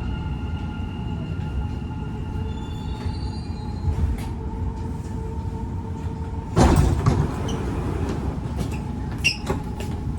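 Dubai Metro electric train heard from inside the carriage: a steady rumble with a high motor whine. About six and a half seconds in there is one loud, short clatter, after which part of the whine stops.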